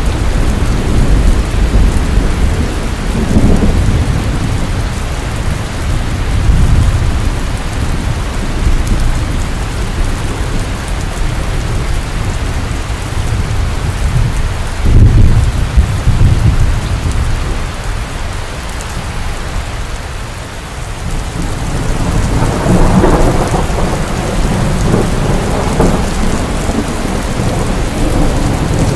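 Steady heavy rain with rolling thunder rumbling in and out, and a sudden sharp thunderclap about halfway through, the loudest moment.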